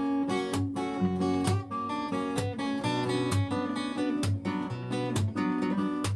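Acoustic guitar strummed in a steady rhythm, with sustained melody notes over the chords: the song's instrumental break.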